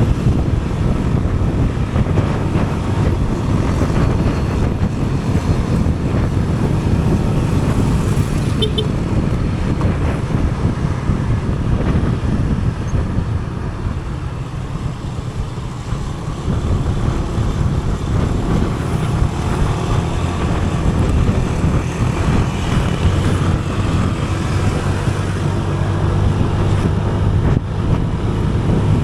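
Steady road-ride noise: wind buffeting the camera microphone over a vehicle engine's low hum, which grows stronger in the last several seconds.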